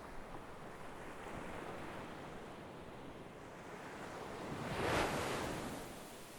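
Sea waves washing in: a steady wash of surf, with one wave breaking loudest about five seconds in, then fading.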